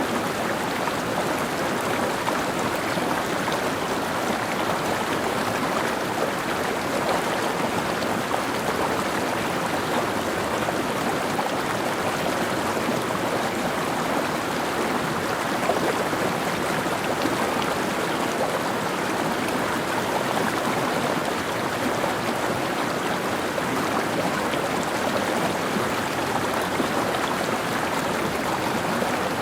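Mountain stream flowing over rocks: a steady, unbroken rush and babble of water.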